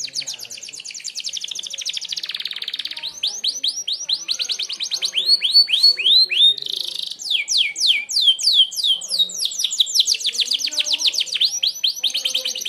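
Canary singing its sharp 'tembakan' (shot) song: long runs of rapid, high whistled notes, each sliding down in pitch. The runs change speed, very fast at first, then slower and wider sweeps, then fast again.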